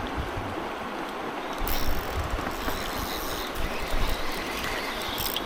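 Steady rush of fast river current running through a rocky shoal, with low rumbling that comes and goes.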